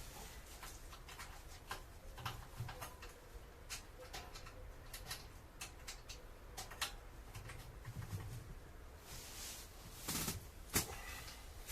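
Scattered light clicks and knocks of a steel tent stove's parts being handled and its legs fitted, a few louder knocks near the end.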